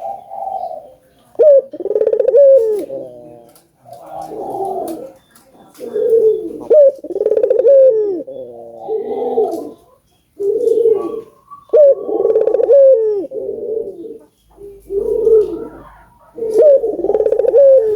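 Domestic ringneck dove (burung puter) cooing eagerly, a steady run of about a dozen short coo phrases. Each phrase slides up and down in pitch, and there are only brief pauses between them.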